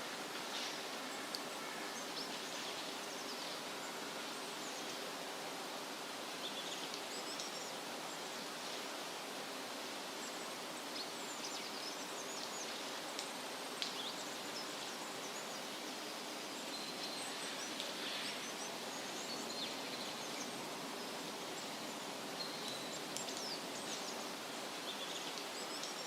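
Steady rustle of wind through leafy trees, with scattered short, high bird chirps throughout.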